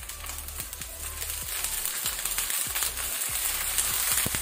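Frozen green peas sizzling and crackling in hot oil in a frying pan, the sizzle building in loudness.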